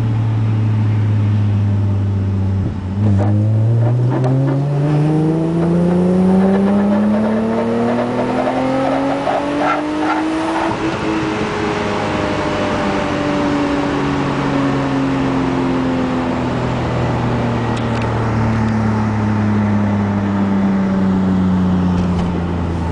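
Freshly built, untuned Nissan Maxima 3.5-litre V6 at 100% throttle in second gear. It holds a low steady note for about three seconds, then rises steadily in pitch from about 2,000 to 6,500 rpm over roughly seven seconds. Then the throttle lifts and the engine note winds slowly back down.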